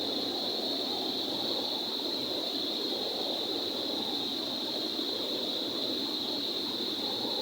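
Rushing water pouring through a dam, a steady dense rush with a constant high hiss over it.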